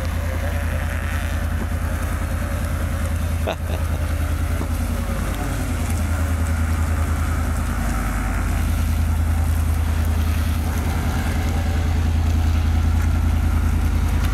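Truck engine running hard and steady as it strains to climb a slippery hill with its tyres spinning, growing a little louder in the second half. There is a single sharp click about three and a half seconds in.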